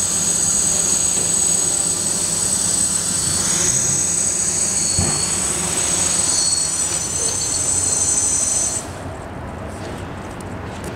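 Hexacopter's six brushless motors and propellers running with a high-pitched whine, which cuts off suddenly near the end, leaving a quieter rushing noise.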